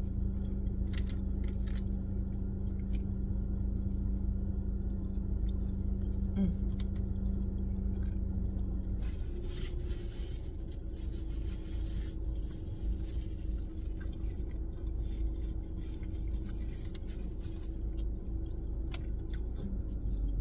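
A person chewing food, with small mouth clicks, over a steady low hum inside a car. About ten seconds in, a paper fast-food bag rustles briefly.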